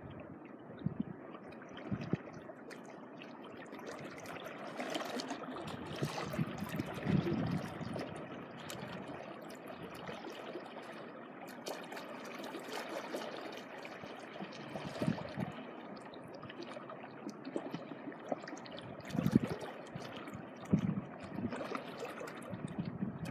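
Small sea waves washing and lapping at the shore in a steady, swelling wash of water, with a few low thumps near the end.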